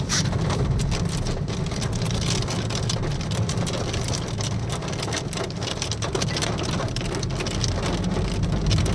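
Heavy rain in a hailstorm, falling steadily with many sharp ticks of drops or stones striking a surface, over a low steady rumble.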